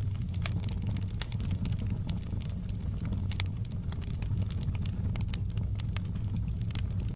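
Wood fire in a fireplace crackling: irregular sharp pops and snaps, a few a second, over a steady low rumble of the burning fire.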